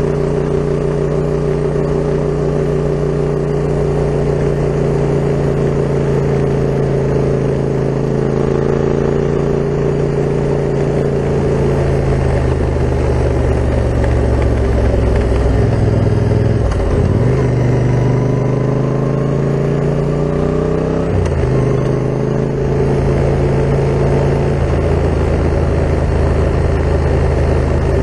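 Yamaha MT-07 parallel-twin engine running through an Akrapovic full carbon exhaust, the motorcycle under way. The engine note holds steady, then falls and rises again twice in the middle.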